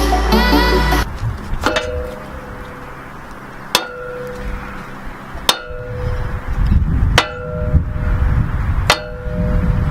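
Five ringing metallic clangs, evenly spaced about every second and a half to two seconds, each leaving a short ringing tone. Music cuts off about a second in, and a low rumble rises in the second half.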